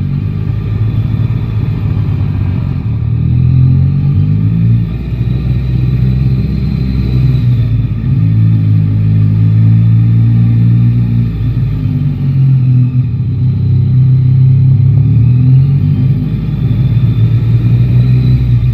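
Yamaha Tracer 9 GT's inline-three engine running under way, its pitch climbing as it accelerates and dropping back at gear changes or when the throttle eases, several times over.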